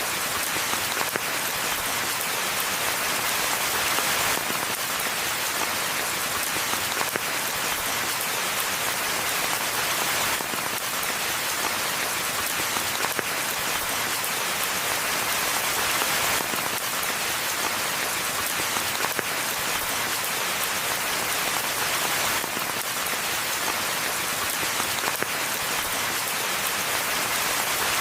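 Steady rain falling: a dense, even hiss of many drops with no let-up.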